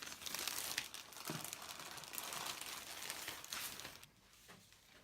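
Plastic packaging crinkling and rustling as it is handled, with small crackles, for about four seconds before it dies down to fainter handling.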